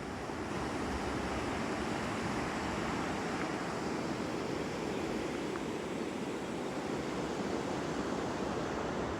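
Steady rush of flowing river water over rocks, an even roar that holds at the same level throughout.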